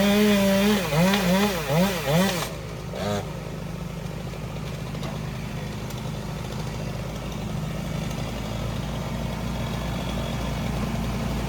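Chainsaw running at high revs with its pitch wavering, then blipped up and down several times and cut off about two and a half seconds in. After it a steady low engine idle carries on.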